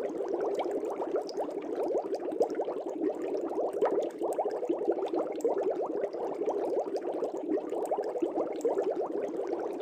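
Air bubbles streaming steadily through fish tank water: a dense, continuous bubbling made of many quick little blips.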